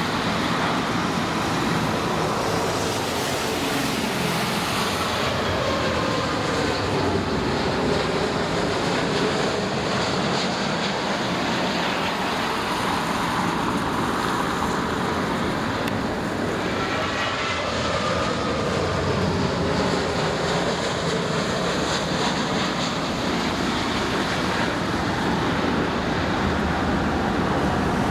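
Jet airliner's engines, loud and steady throughout, with tones that glide down and back up as the aircraft passes.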